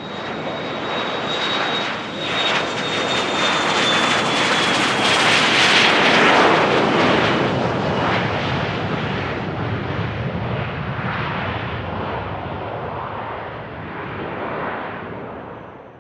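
Business jet's turbofan engines passing along the runway: a high turbine whine that slides down in pitch, under a roar that swells to its loudest about six seconds in and then slowly fades.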